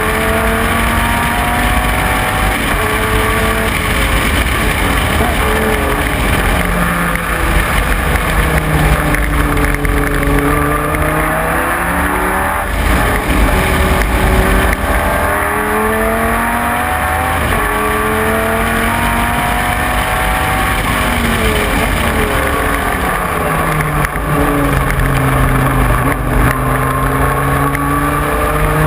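Dodge Viper GT3 race car's V10 engine at racing speed, its pitch climbing as it accelerates and dropping back as it lifts off, several times over.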